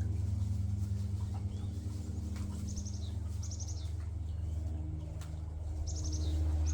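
Small birds chirping in a few short, quick runs of high notes, over a steady low mechanical hum that is the loudest sound.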